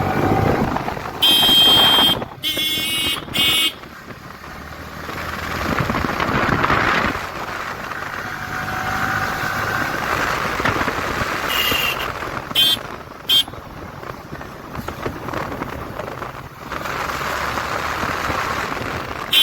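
Riding along a busy road by motorcycle: vehicle horns honk three times in quick succession about a second in, and give a few more short toots past the middle, over steady engine, wind and traffic noise.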